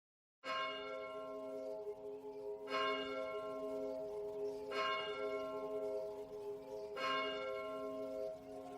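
Bell chimes struck four times, about two seconds apart, after half a second of silence. Each strike rings on with bright overtones over held lower tones.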